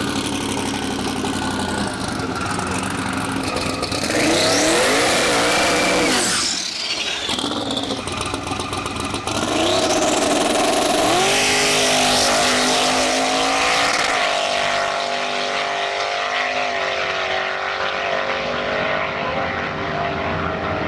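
Car engine accelerating hard, its pitch climbing steeply twice, then running steady at high revs with a couple of small steps in pitch.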